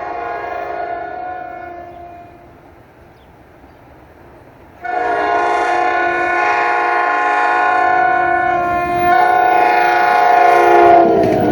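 Train's multi-note air horn sounding at a grade crossing: a blast that fades out, then a few seconds later a louder long blast that shifts partway through and drops in pitch near the end as the train comes by.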